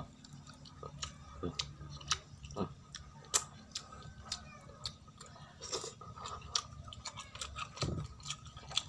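Close-up eating sounds: a person chewing fried rabbitfish eaten by hand, heard as irregular soft clicks and smacks of the mouth and fingers.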